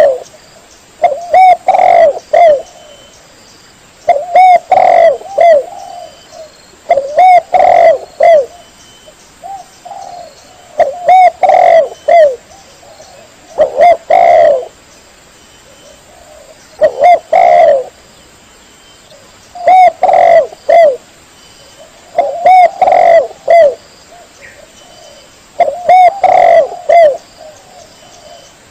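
Spotted dove (tekukur) cooing: loud phrases of a few coos each, repeated about every three seconds.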